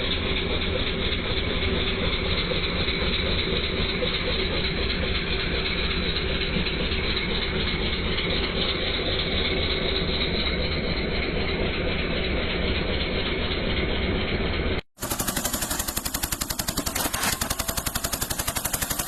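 Eicher tractor's diesel engine running steadily under load. About fifteen seconds in it cuts abruptly to a rapid, even train of sharp pops like machine-gun fire.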